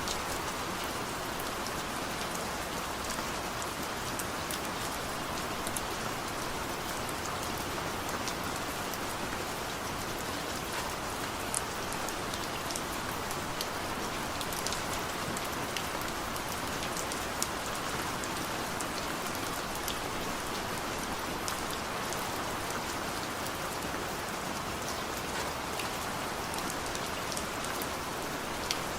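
Steady rain falling, an even hiss with many sharp individual drops pattering close by.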